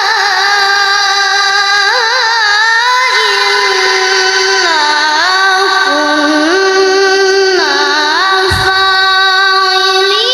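A child qari chanting Quran recitation (tilawah): one unbroken, ornamented melismatic line, trilling and sliding between long held notes. A short thump comes about eight and a half seconds in.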